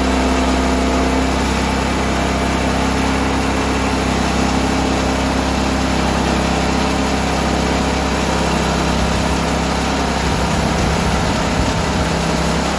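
Sawmill's engine running steadily while milling a black walnut log; its low note shifts about ten seconds in.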